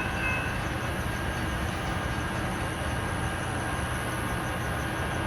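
Passenger train moving through the station, a steady rumble of wheels and running gear. A high whistling squeal fades out just after the start.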